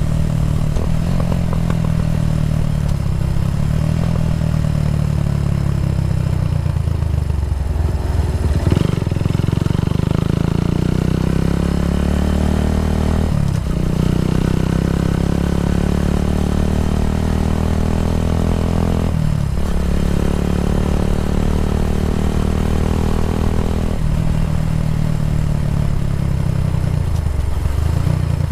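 Kawasaki W175's single-cylinder engine breathing through an aftermarket racing exhaust, running under way. Its pitch climbs steadily, then drops sharply and briefly about three times, as at upshifts.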